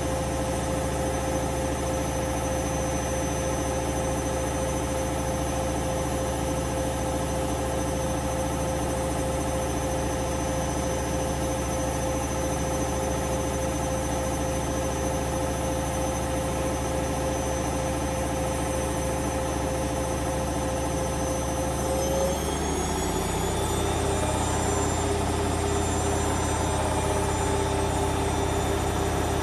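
Hoover Vision Dynamic washing machine's drum motor running steadily with a whine; about 22 seconds in the whine rises in pitch and settles higher as the drum speeds up.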